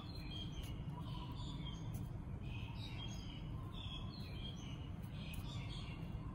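Small birds chirping again and again in short high notes, over a steady low background rumble.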